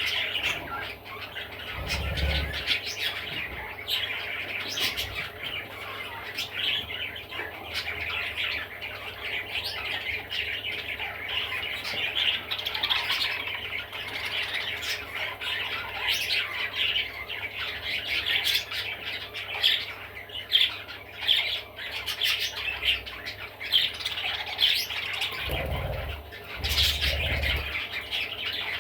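Budgerigar chattering and warbling without pause, a dense run of quick squawks and chirps, with a few low thuds about two seconds in and again near the end.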